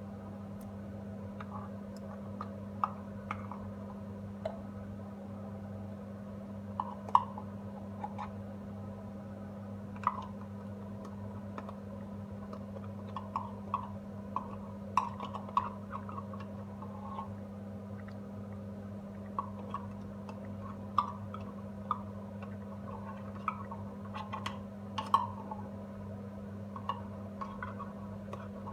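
Irregular light clicks and clinks of a utensil against a cooking pot as tomato paste is added, over a steady low hum.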